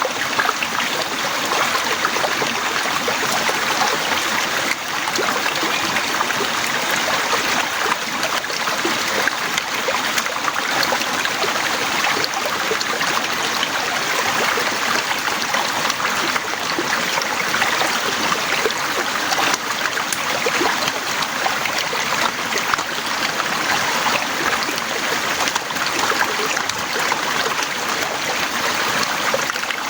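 Heavy rain falling steadily, a dense patter of drops without let-up.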